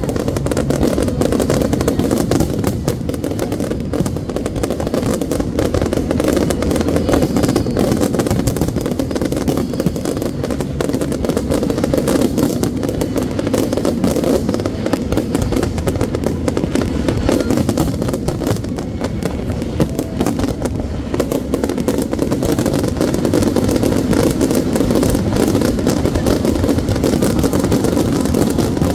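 Fireworks going off in a dense, continuous run of many rapid bangs and crackles over a steady rumble.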